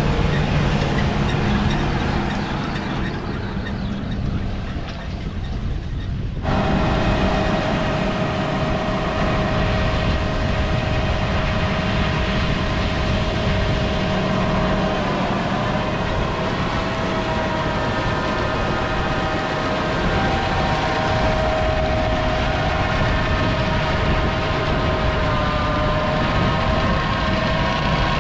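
Heavy harvest machinery running steadily, a big diesel engine with steady whining tones over it; about six seconds in the sound changes abruptly to a fuller, louder run.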